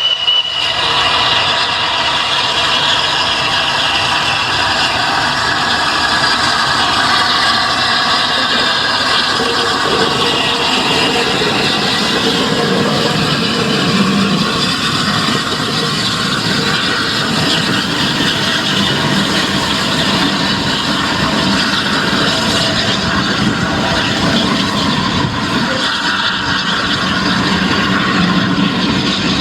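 LNER A3 steam locomotive Flying Scotsman running with its train: a loud, steady rush of rail and locomotive noise throughout.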